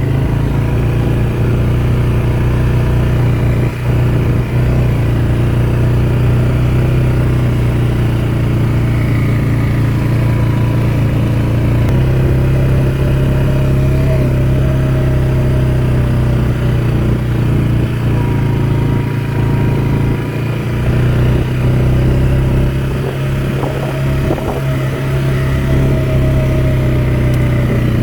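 ATV engine running steadily under way, heard from on the machine, its pitch stepping up slightly about 12 seconds in.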